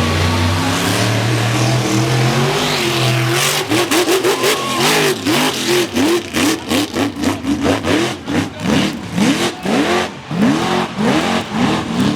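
Mega truck engine running at a steady pitch, then revved hard in quick repeated blips, two to three a second, from about three and a half seconds in, with sharp cracks mixed in.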